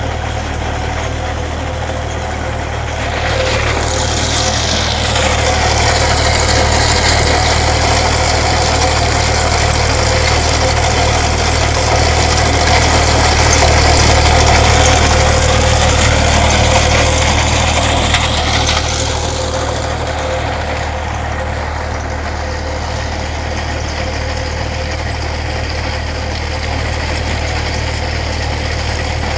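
Excavating machine's engine running steadily while digging a trench. It works harder from about three seconds in, louder and with a whine that bends in pitch, then settles back to a lower, even run after about eighteen seconds.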